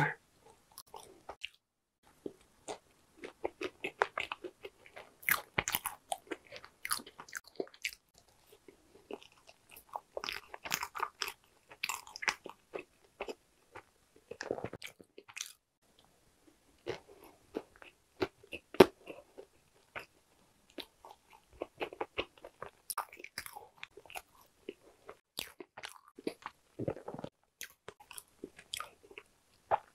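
Chewing a walnut cake (hodu-gwaja), heard close up: crisp crunches of the walnut pieces inside, with softer wet mouth sounds. They come in irregular clusters with short pauses, and one sharper crunch a little past the middle.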